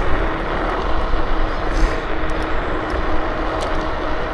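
Steady wind and road noise while riding a KuKirin G2 electric scooter: a constant rush with deep wind rumble on the microphone and a faint steady hum.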